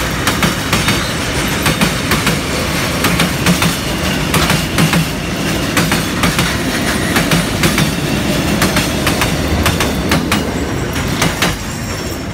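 Freight train boxcars rolling past, their wheels clacking over the rail joints in a steady stream of sharp clicks over a continuous rumble. The sound eases off slightly near the end as the tail of the train passes.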